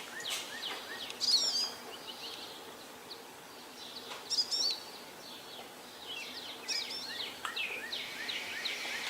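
Songbirds chirping and singing, many short rising and falling chirps, with louder phrases about a second in, around four and a half seconds in, and again around seven seconds.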